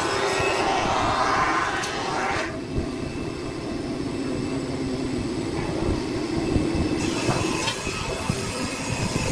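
Wood lathe running with a turning tool cutting the spinning wood, a rough hiss over the motor's steady hum. About two and a half seconds in the cutting hiss stops and the lathe runs on alone, with a few light ticks near the end.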